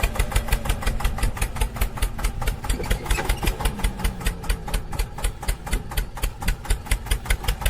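The small engine of a DIY mini tractor running with a fast, even putter of about eight beats a second, as the tractor tries to pull free with its drive wheel stuck in spilled wheat.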